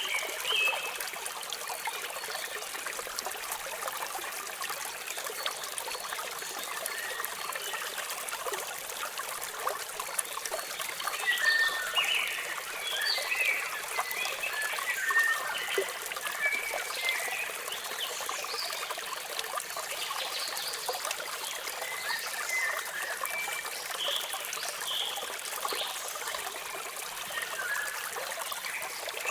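Falling water splashing and trickling steadily, with birds chirping over it in short bursts of calls, busiest in the middle and near the end.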